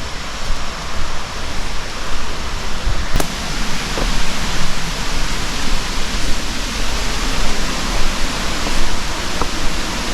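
Steady rushing of a river and waterfall, a loud even hiss of water that wavers slightly in loudness.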